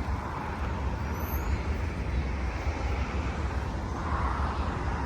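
Norfolk Southern freight train rolling past, a steady rumble and rush of wheels on the rails with no distinct clicks or horn.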